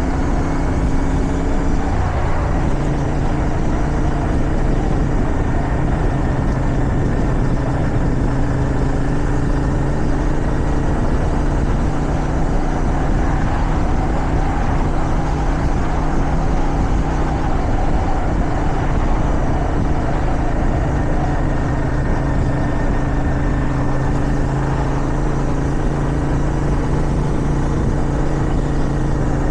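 Motorcycle engine running at a steady cruising speed under way, with wind rushing past. The engine note holds nearly constant throughout.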